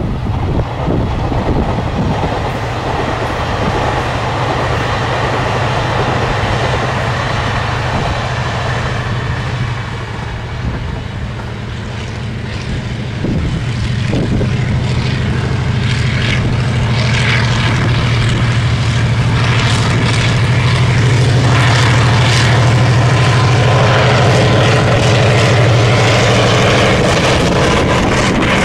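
EMD G12 (R20-class) diesel-electric locomotive running with a steady low engine drone that grows louder about halfway through as the freight train draws near, with clatter of the train over the track.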